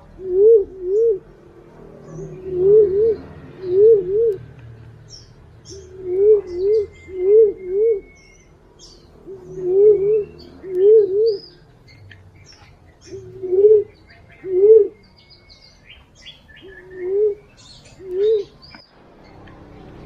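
Fruit-pigeon lure call: a series of low, wavering coos, mostly in pairs, spacing out toward the end, used as a lure call for punai (green pigeons) and walik (fruit doves). Faint small-bird chirps and a thin whistle sound higher up.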